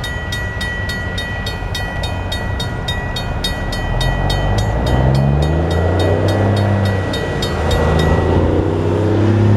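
Railroad crossing signal bell ringing steadily at about three strikes a second, stopping near the end. From about four seconds in a diesel locomotive's engine rumbles and grows louder.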